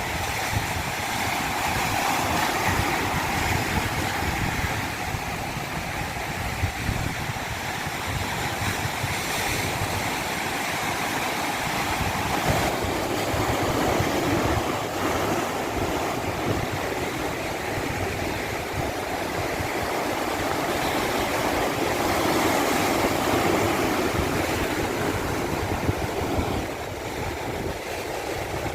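Stream water rushing steadily over a rocky cascade, a continuous hiss and gurgle, its tone shifting lower about halfway through.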